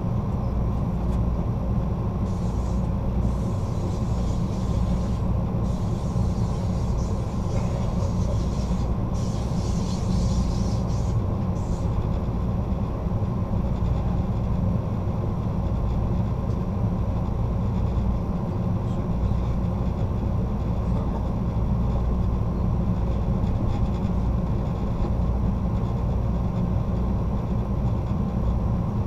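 Passenger train running along the track, heard from inside its rear car: a steady low rumble of wheels on rails. A higher hiss comes and goes during the first ten seconds or so.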